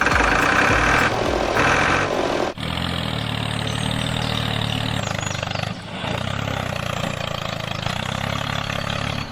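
Engine-like running sound, as of the miniature tractor bulldozer. A louder, hissier stretch in the first two and a half seconds, then steady low running with a brief dip near the middle.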